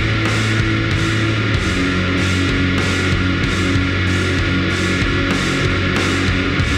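Loud, heavy rock music with distorted guitars and a drum kit, the cymbals keeping a steady pulse of about three beats a second.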